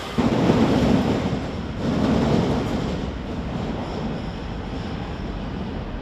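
Rome Metro Line A train running on the rails, a dense rumble that comes in abruptly just after the start, swells again about two seconds in, then settles to a steadier level.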